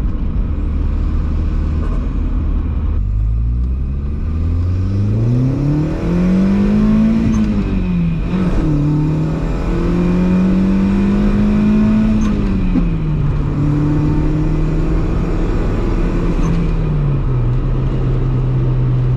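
Volkswagen 1.8T turbocharged four-cylinder engine pulling hard under acceleration: revs climb steadily through a gear, dip at a shift with a short burst of noise, climb again through the next gear, then settle to steady cruising as the throttle is eased off.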